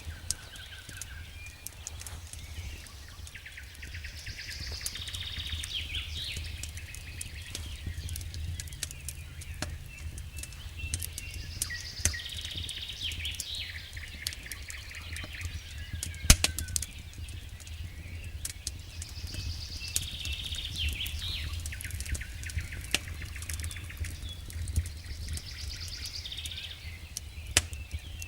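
Wood fire crackling in a fireplace, with many small sharp snaps over a low steady rumble and one loud pop about sixteen seconds in. A higher chirping sound comes and goes about every eight seconds.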